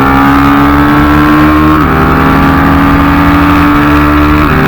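Single-cylinder four-stroke engine of a mini bike (a Yamaha TTR125 bored out to 150) pulling under throttle, its pitch climbing steadily and dropping sharply twice as it is shifted up through the gears.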